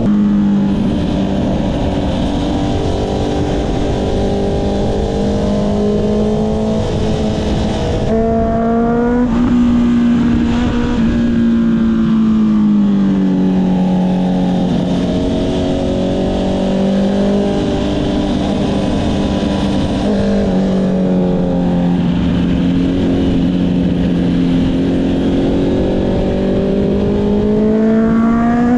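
Honda CB650R's inline-four engine through an Akrapovič exhaust, running at fairly steady revs with repeated rises and falls in pitch, and revs climbing near the end.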